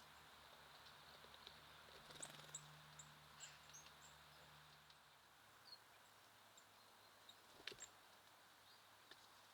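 Faint, short, high chirps of small songbirds, most of them together about two to four seconds in, with a single sharp tap near the end.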